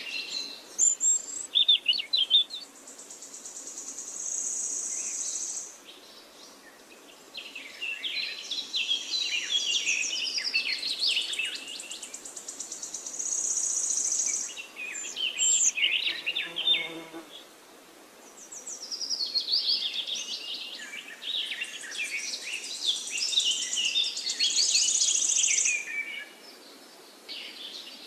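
Birds singing in a forest: long, busy phrases of high chirps and buzzy trills, each lasting several seconds and repeated after short pauses. A brief lower call comes about halfway through, over a soft steady background.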